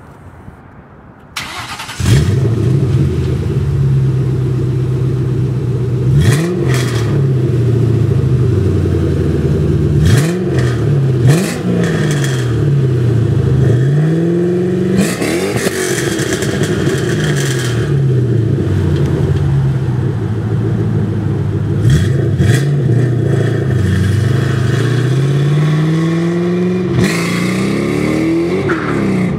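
2001 Ford Mustang GT's 4.6-litre V8 through an off-road X-pipe and Mac mufflers with turndowns, idling and blipped in neutral about seven times, each rev climbing quickly and dropping back to idle. The idle jumps sharply louder about two seconds in.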